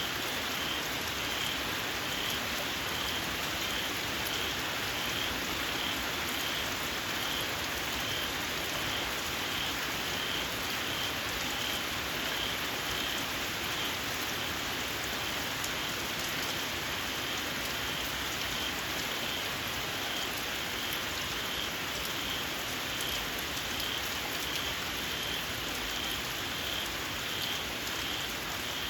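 Steady rain falling on surfaces, with a small frog (khiad) repeating a short, high, shrill call about once a second.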